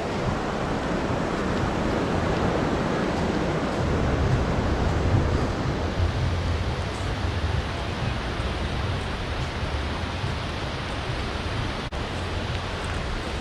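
Steady noise of wind and breaking surf, with a low wind rumble on the microphone.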